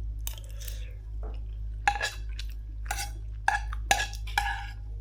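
Eating utensils clinking against dishware, about five sharp clinks in the second half, over a steady low hum.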